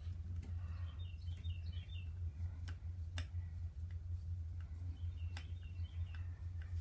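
Scattered small clicks of hand tools and parts being handled over a steady low hum, with a bird chirping a short run of quick notes about a second in and again near the end.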